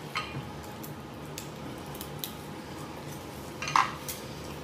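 Quiet eating sounds: soft chewing and mouth clicks, with one brief, louder wet smack about three-quarters of the way in.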